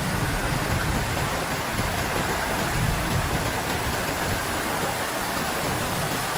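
Heavy rain with wind: a steady, even hiss, with a low rumble in the first few seconds that eases off about halfway through.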